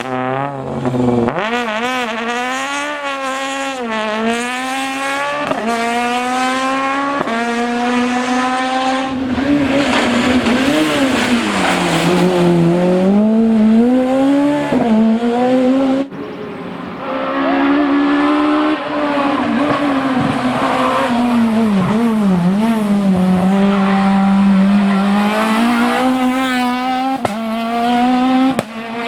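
Peugeot 206 Maxi rally car engine revving hard, its pitch climbing through each gear and dropping on the shifts and lifts, in a run of short clips cut abruptly together.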